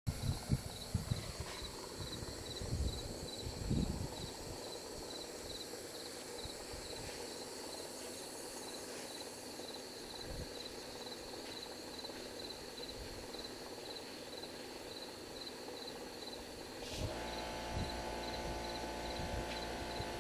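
Cricket chirping steadily at about two to three high pulses a second, with a few low thumps in the first seconds. Near the end a steady hum with several tones comes in.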